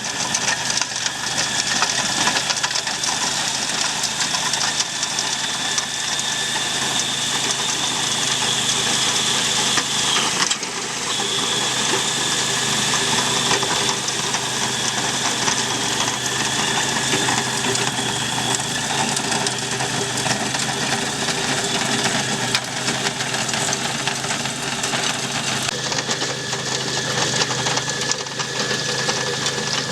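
Walk-behind tractor's engine running steadily while driving a rotary tiller, with a brief dip in the sound about ten seconds in.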